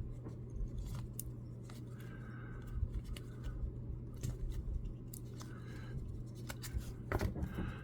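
Baseball trading cards being handled and flipped through: faint irregular clicks and a few short sliding rustles of card stock, over a low steady hum.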